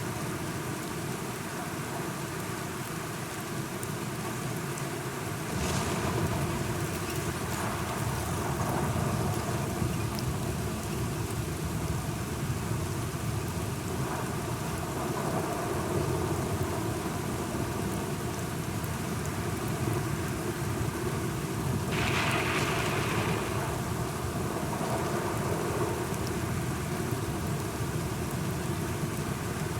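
Steady rain falling, joined about six seconds in by a deep low rumble of thunder that carries on to the end, with two brief brighter swells of noise, one about six seconds in and one about two thirds of the way through.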